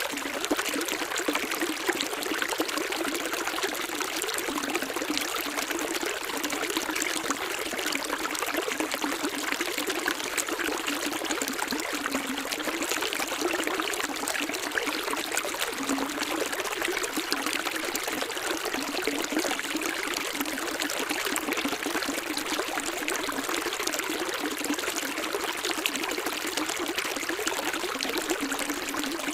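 Running water, trickling and splashing steadily, with little deep rumble.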